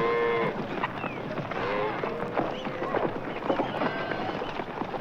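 Cattle-drive sound effect from a 1960s record: cattle lowing with the clatter of many hooves.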